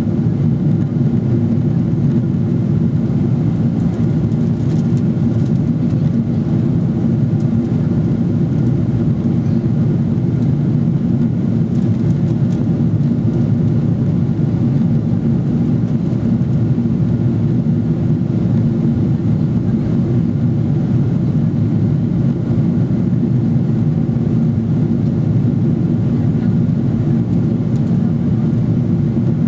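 Steady, even rumble of a Boeing 777-300ER's GE90-115B engines and airflow heard from inside the passenger cabin.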